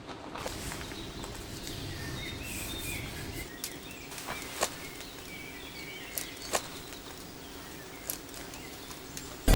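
Outdoor rain ambience: a steady hiss with scattered sharp taps like drops landing, and a few faint bird chirps around two to three seconds in.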